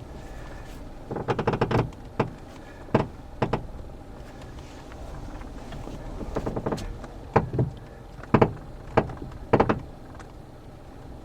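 Irregular clunks and short rattling knocks from a 2009 Toyota Corolla's front suspension over a steady background rumble of the car. The owner puts them down to the front strut's coil spring and a bad or seized strut bearing.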